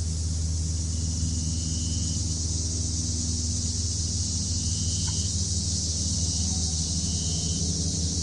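Grass-field ambience: a steady high chirring of crickets in the grass over a low, steady rumble, with a few faint high calls now and then.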